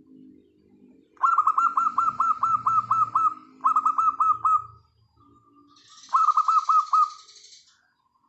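Zebra dove (perkutut) singing: three phrases of quick, falling cooing notes, the first the longest, with softer, lower cooing under and between them.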